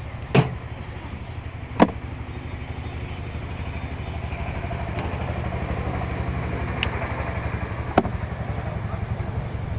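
Steady low rumble of a running engine, with a few sharp clicks or knocks on top.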